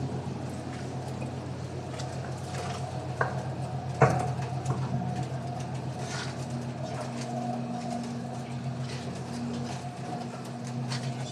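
Steady low hum of a squid-fishing boat's machinery, with scattered wet clicks and patters and one sharp knock about four seconds in.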